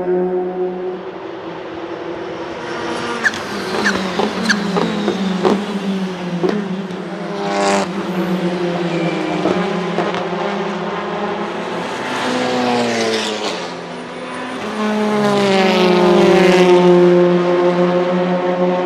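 Hyundai Elantra N's turbocharged 2.0-litre four-cylinder and sport exhaust running, with a string of sharp exhaust pops and crackles a few seconds in. The engine note then falls and climbs again, loudest near the end, in an over-boosted recording.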